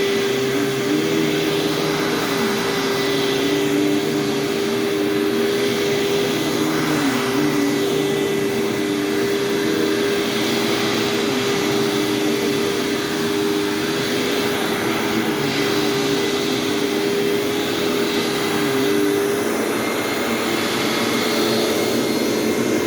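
2000 Hoover WindTunnel Deluxe U5461-900 upright vacuum with a 12-amp motor, running steadily with a HEPA bag fitted. It makes a steady high whine over a lower tone that wavers up and down, kind of noisy but not plug-your-ears loud.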